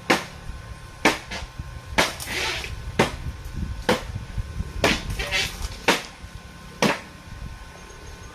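Hammer blows struck at an even pace, about one a second, eight in a row, each with a short ringing tail.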